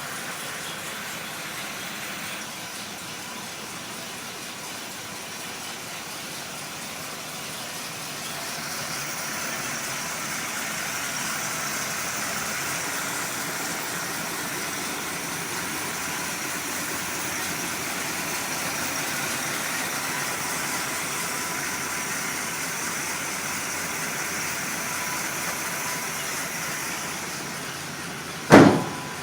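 1973 Buick Riviera's 455 V8 idling steadily, a little louder from about nine seconds in. A single sharp, loud thump near the end.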